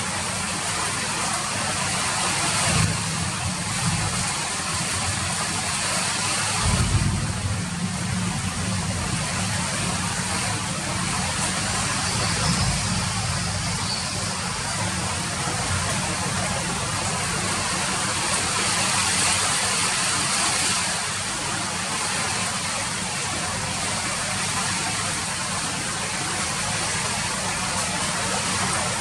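Steady rain falling, an even hiss, with a low rumble underneath that swells a few times, most strongly about seven seconds in.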